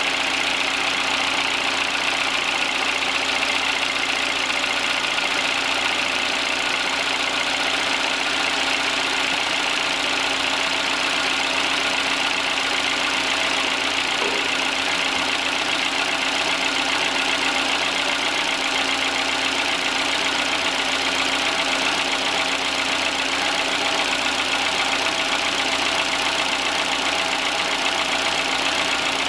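Citroën C3's 1.5-litre engine idling steadily, run so the coolant circulates and the expansion tank drains into the system while the cooling circuit is filled and air is bled out.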